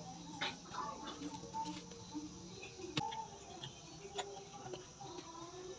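Close-up eating sounds: irregular chewing and mouth smacks, with a few sharp clicks.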